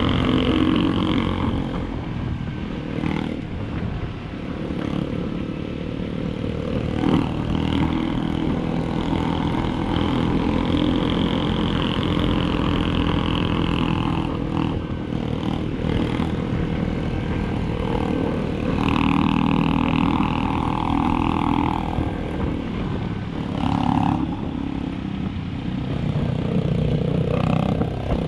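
Motorcycle engine running under way, its pitch rising and falling with the throttle, over a low rumble of wind buffeting.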